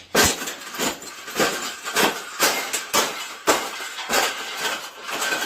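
Metal wire bird cage being bent and crushed: a run of loud clanking, rattling impacts, about two a second, irregular in spacing.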